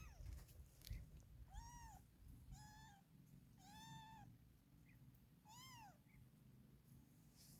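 A cat meowing four times: short high-pitched mews, each rising and then falling in pitch, spaced about a second apart.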